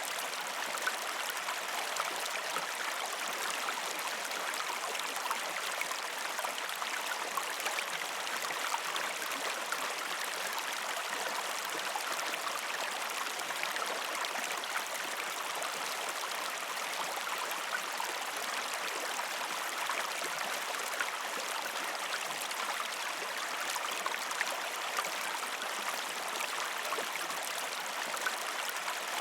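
River stream flowing over rocks: a steady rush of water with small splashes and gurgles, unchanging throughout.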